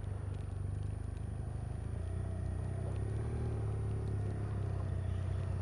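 BMW R1200RS boxer-twin engine running steadily, with a slight rise in pitch around the middle.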